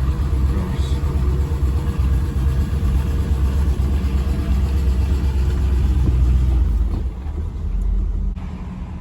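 Chevy V8 engine in a Range Rover, breathing through a Walker Quiet-Flow muffler, running under heavy load as it pulls a roughly 2500 kg trailer up a hill. It is a steady low rumble that eases off about seven seconds in and dips briefly just after eight seconds.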